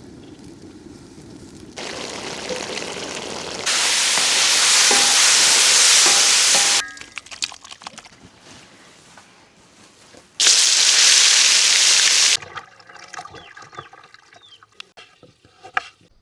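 Food frying loudly in a hot pan over a wood fire, a steady hiss that comes in a few separate stretches of a few seconds each, starting and stopping abruptly, with quieter moments between.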